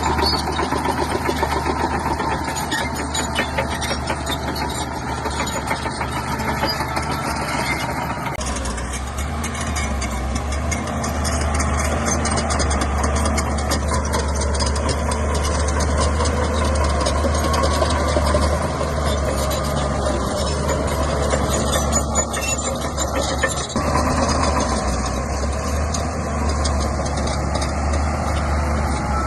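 Shantui bulldozer's diesel engine running under load with a steady low rumble, growing louder and heavier from about a third of the way in.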